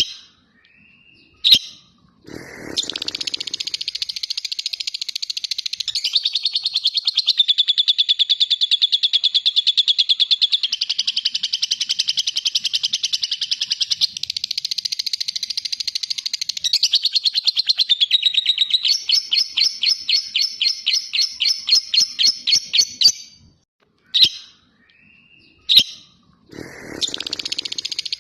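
Lovebird 'ngekek': a long, rapid, unbroken chattering trill lasting about twenty seconds, its notes spacing out into separate pulses near the end. A few short chirps come before it, and a new trill starts just before the end.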